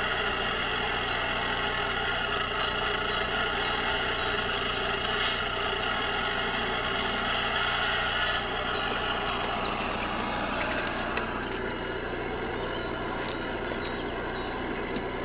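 Radio-controlled scale model of a Kenworth W900 truck running on the road, giving a steady engine-like sound that eases a little about eight and a half seconds in.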